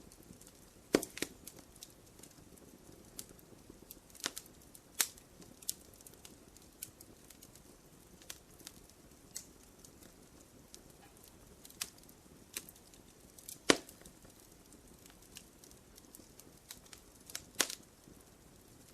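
Wood fire crackling in a fireplace: irregular sharp pops and snaps, a few loud ones among many faint ticks, over a soft low hiss of the flames.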